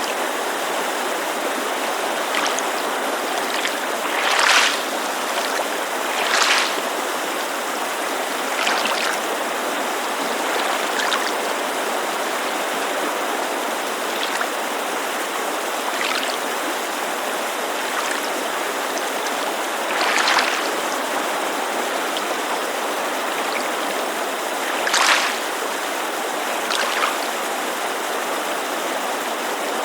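Small waves lapping against a lakeshore in brief, irregular splashes a few seconds apart, over the steady rush of a mountain creek.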